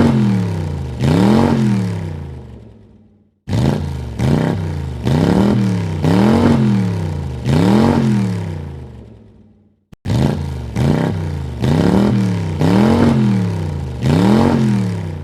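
Car engine revved in quick throttle blips, its pitch rising and falling about once a second, each rev dying away before the next. The sound cuts off abruptly twice and starts again: three separate revving recordings back to back.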